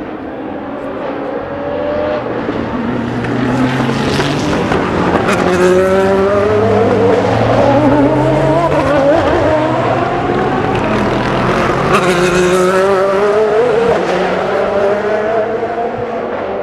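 Endurance race cars passing at trackside, engines at racing speed. The engine notes build over several seconds, rise and fall in pitch and overlap, then fade a little near the end.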